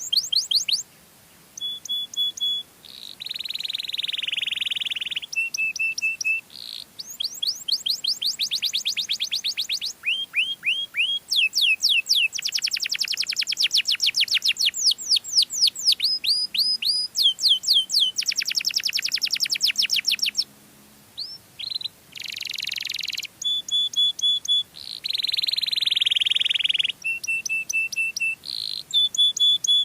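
Domestic canary singing a long, varied song of rapid trills, buzzy rolls and short level whistled notes, with brief pauses about a second in and about two-thirds of the way through.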